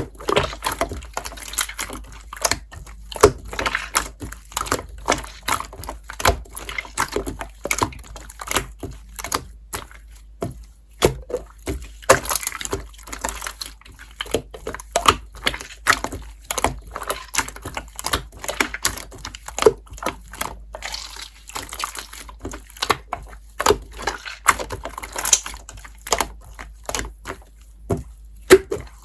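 Slime being squished and pressed by hand, making a fast, irregular string of wet clicks and pops.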